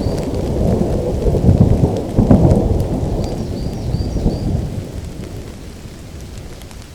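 Thunder rumbling with steady rain falling. The rumble swells twice in the first half and dies away over the last couple of seconds, leaving the rain.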